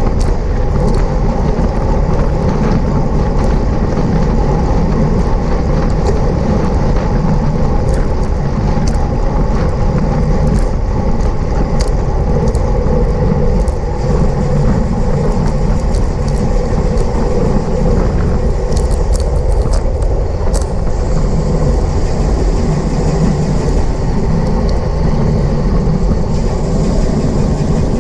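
Steady rush of wind over the microphone of a road bike's onboard camera at racing speed, with scattered faint clicks.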